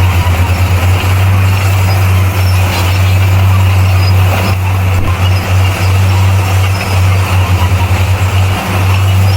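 Heavy diesel engine of earthmoving machinery running under load: a loud, steady low drone whose loudness flutters rapidly in places.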